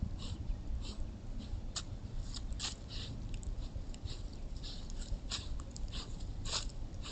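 An animal close to a trail camera's microphone making many short, irregular scuffing sounds over a steady low rumble.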